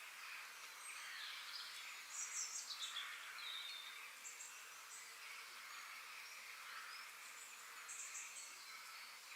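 Forest ambience: small birds chirping and trilling over a faint steady hiss, with a burst of quick falling trills about two seconds in and more chirps near the end.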